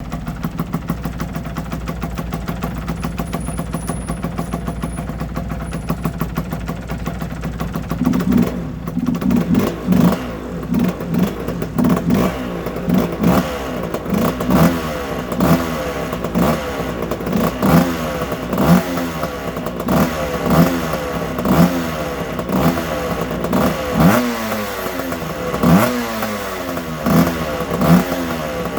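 Aprilia RS125's two-stroke single-cylinder engine idling steadily, then from about eight seconds in revved in quick throttle blips, each rising and falling, about once a second.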